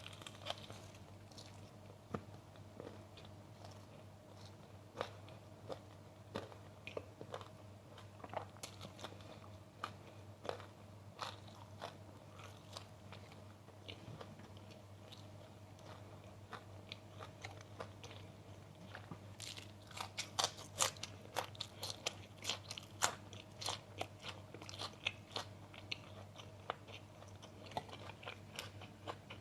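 Close-miked biting and chewing of crunchy food, with many crisp crunches that grow denser and louder about two-thirds of the way through.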